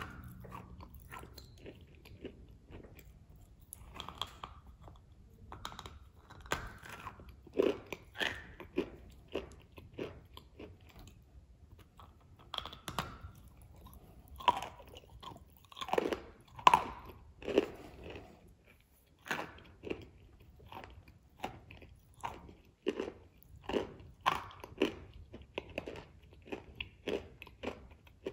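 Chewing and biting a wet "Matryoshka" cookie with whipped cream: irregular crisp crunches, coming thickest about halfway through and again near the end.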